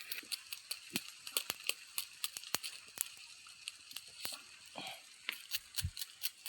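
Open wood campfire crackling, with sharp irregular pops several times a second over a faint hiss, while fish grill over it.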